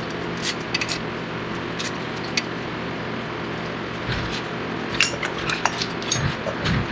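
Scattered light metal clinks and clicks, busier in the second half, with a couple of dull thuds near the end, over a steady low hum.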